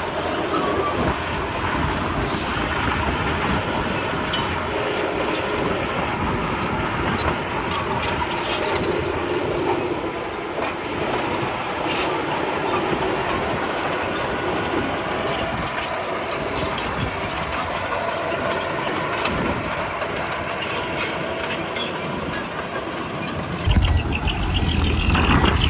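Komatsu D31P crawler bulldozer working: engine running, with the steel tracks clanking and squealing. Near the end a deeper, louder engine rumble comes in.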